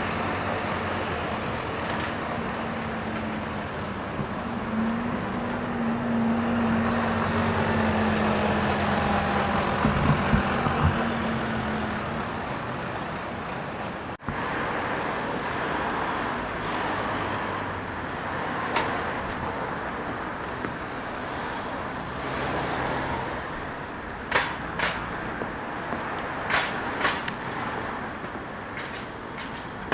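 Street traffic passing close by, with a heavy vehicle's engine hum through the first half and several sharp clicks near the end.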